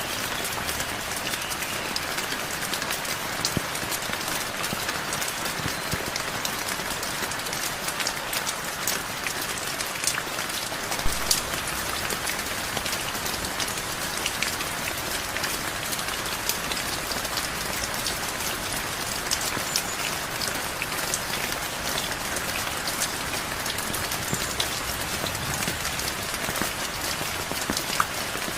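Heavy rain falling steadily, a dense hiss of drops spattering on surfaces, with one dull thump about a third of the way through.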